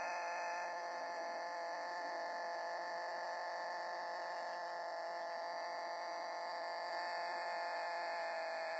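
A rooster holding a single very long drawn-out crow on a steady note, its pitch sagging slightly near the end, as in the long-crowing breeds.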